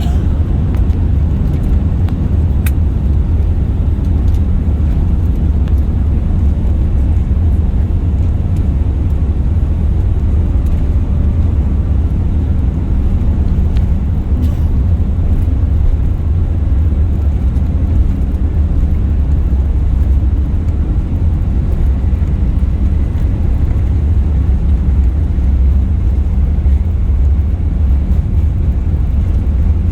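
Steady, loud low rumble of an Airbus A380's four Rolls-Royce Trent 900 engines and the rushing airflow, heard from inside the passenger cabin.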